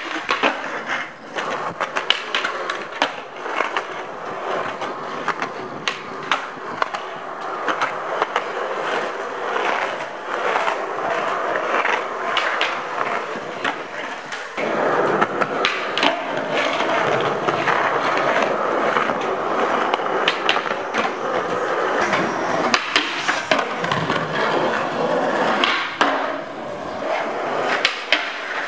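Skateboard wheels rolling continuously, broken by frequent sharp clacks and knocks of the board's tail and trucks striking the ground.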